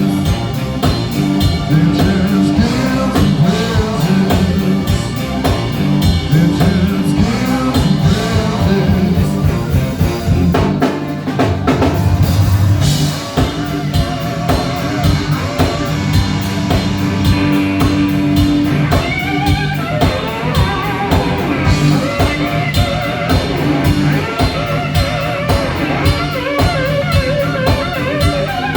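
Blues-rock band music: a drum kit keeping a steady beat under electric guitar, with wavering, bent lead lines in the second half.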